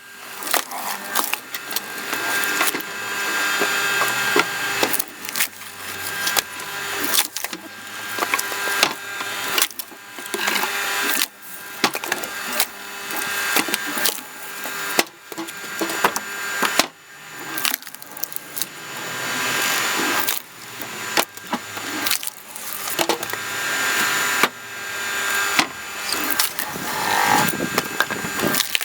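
Screw cone log splitter boring into logs: the wood cracks and splinters again and again as it is forced apart, over the steady hum of the splitter's motor. The noise repeatedly builds and then drops off suddenly as a piece breaks away.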